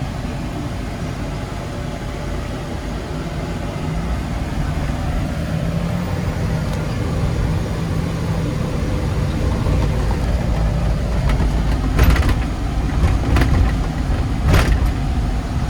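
Kia Bongo 3 cargo truck running on a test drive: a steady low engine and road drone. Three short knocks come in the last few seconds.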